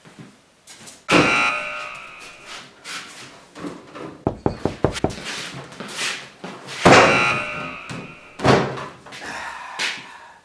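Antique wooden pie cabinet's doors and drawer being opened and shut: several sharp slams and knocks, the loudest about a second in and near seven seconds, with a run of quick rattling clicks around four to five seconds.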